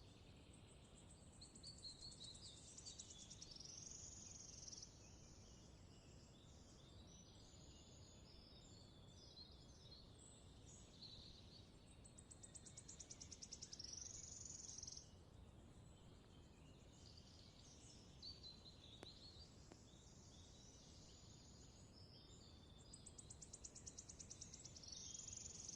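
Faint forest birdsong: one songbird repeats a short song of about three seconds, a quick trill ending in a flourish, about every ten seconds, while other birds chirp in between.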